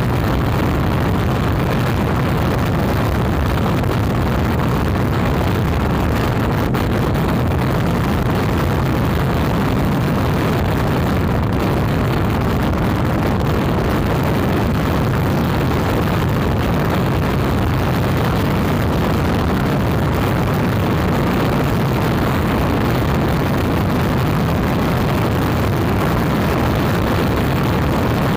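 Very strong wind, around 135 km/h, blowing hard and steadily and buffeting the microphone.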